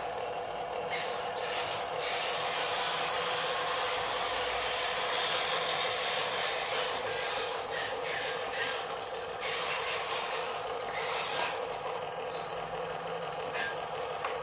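RC dump truck's small electric motor and gearbox whining steadily, with a rough scraping, grinding noise that swells and fades every second or two.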